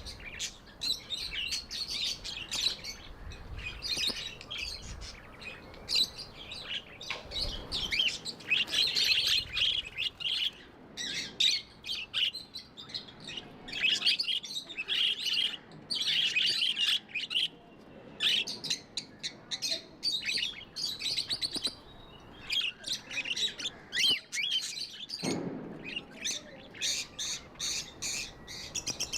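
Budgerigars chirping and warbling in rapid, busy bursts of high chirps with short pauses.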